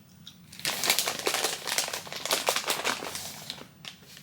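Snack packaging crinkling and crackling as it is handled and opened, a dense run of crackles starting just under a second in and fading near the end.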